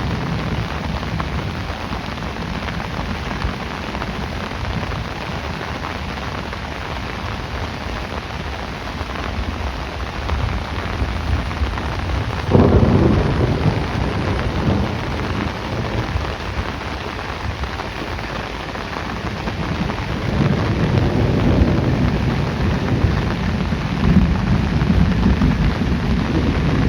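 Heavy rain falling steadily in a thunderstorm. About halfway through, thunder breaks suddenly and rumbles on, and a deeper, louder rumble of thunder builds near the end.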